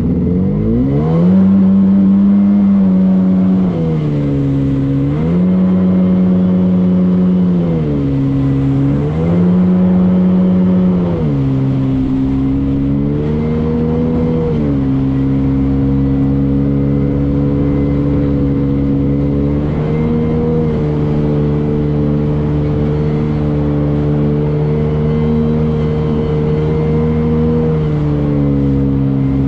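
Motorboat engine running under throttle, revving up and easing off three times in quick succession, then holding a steady pitch with a brief dip near the end.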